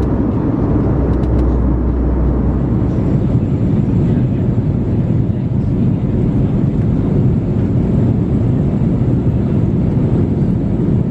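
Steady engine and airflow noise inside the cabin of an Airbus A320 airliner, heard from a passenger seat; a low hum underneath changes about three seconds in.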